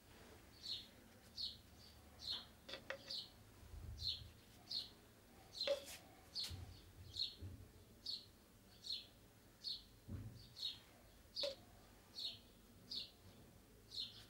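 A bird chirping the same short, high, slightly falling note over and over, evenly a little more than once a second, with a few faint taps in between.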